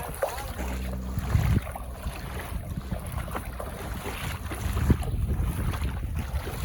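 Wind buffeting the microphone over waves washing on the shore, a steady low rumble with irregular gusting thumps.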